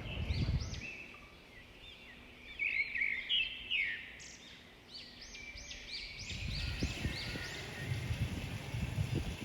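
Birds chirping: many quick, arching high calls overlapping one another, over a low rumble that swells about six seconds in.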